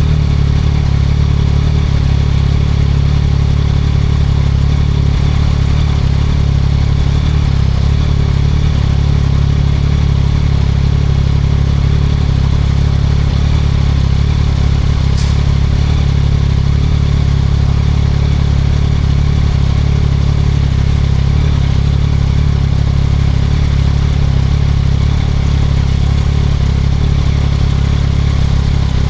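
2024 Yamaha MT-09 SP's inline three-cylinder engine running through a Spark aftermarket exhaust, heard steadily while riding, with a deep low-pitched drone and no big changes in speed.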